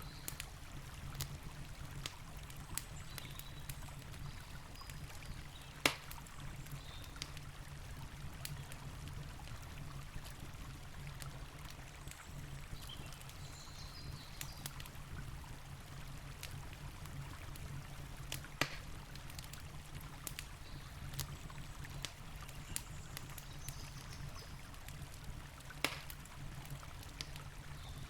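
Campfire crackling with frequent small snaps and three louder pops spread through, over the steady rush of a flowing river.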